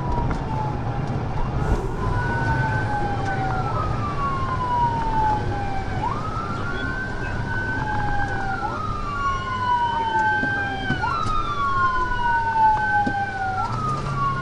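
Texas DPS patrol car siren wailing in pursuit: each cycle jumps up quickly and then falls slowly, repeating about every two and a half seconds. A steady rumble of road and engine noise runs underneath.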